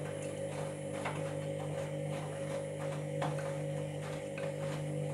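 Washing machine motor turning the drum: a steady hum with irregular clicks and scrapes, the grinding that the owner takes for worn drum bearings.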